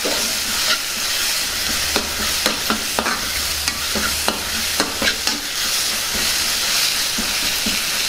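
Onion, green chilli and spice masala sizzling in oil in a metal pan as it is stirred with a spoon, the spoon clicking and scraping against the pan every so often, most often in the first few seconds.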